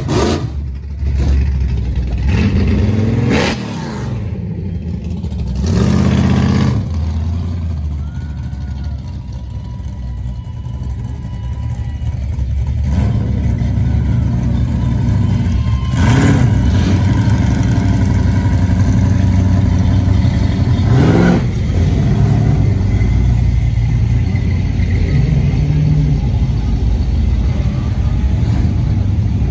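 Classic cars driving past one after another, their engines running and now and then revving, with several louder close passes.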